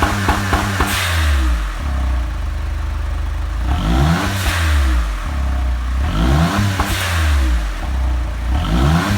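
Honda S660's turbocharged three-cylinder engine through an HKS Legamax Sports muffler, held against a rev limiter with a rapid stutter for the first second, which the owner takes for the car's anti-misstart rev limit. It then drops to a low idle and is blipped three more times, each rev falling away, with a short hiss from the blow-off valve as the throttle shuts.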